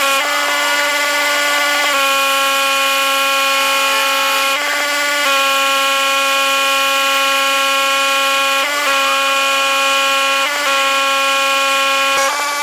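Pressure washer running with a steady, high-pitched whine at one unchanging pitch, broken by short dips several times.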